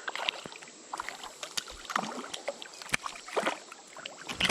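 Creek water splashing and sloshing, with scattered sharp clicks and knocks.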